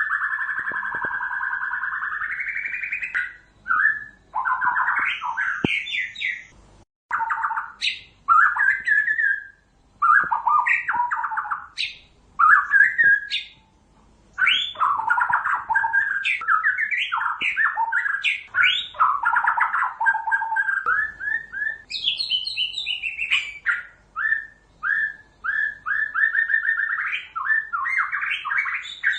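White-rumped shama (murai batu) singing: a long run of loud, varied whistled and warbled phrases broken by short pauses. It opens with a drawn-out note and ends with a string of quick repeated notes.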